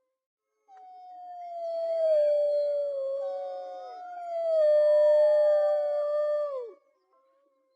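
Wolves howling: one long howl begins a little under a second in and a second howl joins and overlaps it about halfway through. Both are held on a slowly falling pitch and drop away together near the end.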